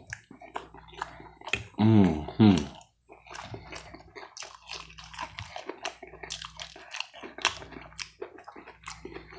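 Close-miked chewing of pancakes: wet, sticky mouth clicks and smacks, with a short voiced hum about two seconds in.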